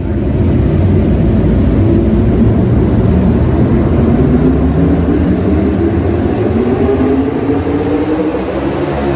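Small-block V8 of a four-wheel-drive pulling truck at full throttle during a pull, coming in loud all at once and then holding, its engine note climbing slowly in pitch as the truck goes down the track.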